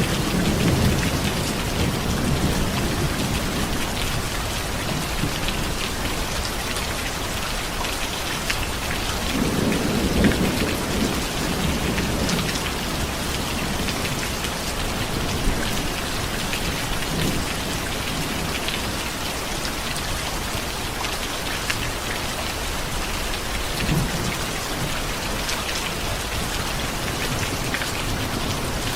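Steady rain with low rolls of thunder: one rumble at the start, a stronger one about ten seconds in, and a short one near the end.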